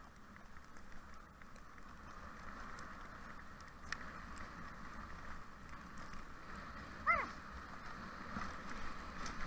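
Steady rushing hiss of a Siberian husky team on the move, with one short yelp sliding down in pitch about seven seconds in.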